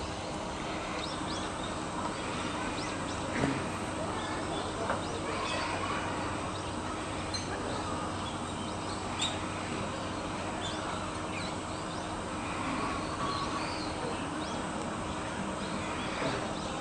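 Birds chirping and calling on and off over a steady outdoor background, with a few short sharp clicks.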